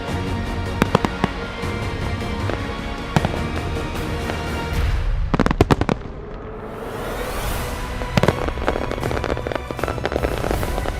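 Fireworks going off: dense crackling and popping, a quick cluster of loud bangs about halfway through, then a rising hiss, with music playing underneath.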